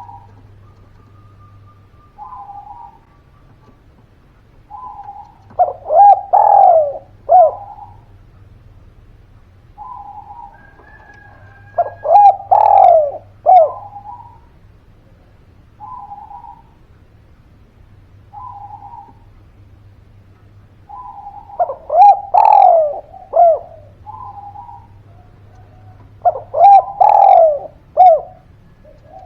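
Spotted dove cooing in repeated phrases, about one every five seconds. Each phrase has a few soft coos and then a short run of loud, ringing coos. A faint low hum runs underneath.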